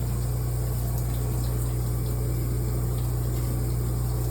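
Shower running: a steady rush of water with a low hum underneath.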